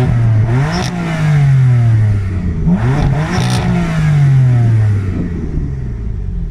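BMW M4 F82's S55 twin-turbo 3.0-litre inline-six being free-revved through its stock quad exhaust. It is blipped twice, once at the start and again about three seconds in, and each time the revs fall back slowly.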